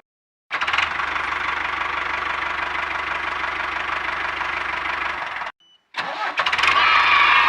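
An engine running steadily with an even, rapid beat. It cuts off suddenly about five and a half seconds in, then comes back a moment later louder, with a whine that slowly falls in pitch.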